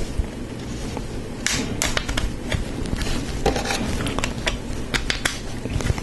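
Plastic Lego Technic parts clicking and clattering as they are handled and pushed together, in quick irregular clicks that begin about a second and a half in.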